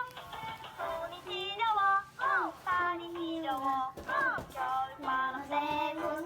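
A child's voice singing a melody over background music, with sliding, swooping notes.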